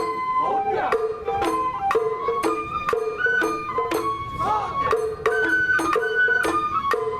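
Sawara festival hayashi music: a bamboo flute melody in held notes over drum and bell strikes about twice a second, with a brief gliding figure about halfway through.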